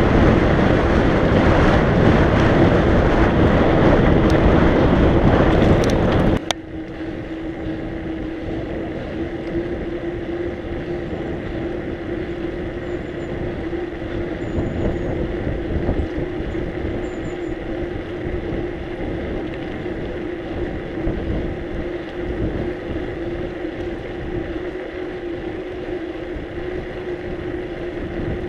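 Wind rushing over the microphone of a bicycle going fast downhill, cutting off abruptly about six seconds in. After that comes a quieter steady rush of riding noise with a steady low hum.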